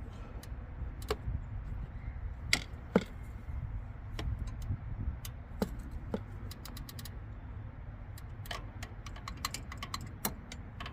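Scattered sharp metallic clicks and taps of a tensioner pulley assembly and hand tools against the engine's metal parts as it is worked into place, with a few quick runs of clicks later on, over a steady low rumble.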